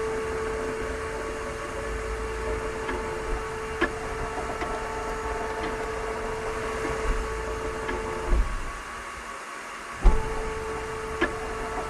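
A steady machine-like hum with a constant tone, which cuts out about eight seconds in and comes back with a thump about two seconds later; a few faint clicks.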